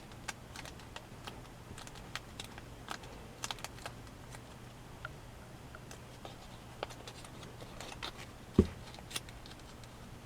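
Origami paper being handled and creased, with irregular small crisp crackles and ticks, and a single louder dull thump about eight and a half seconds in.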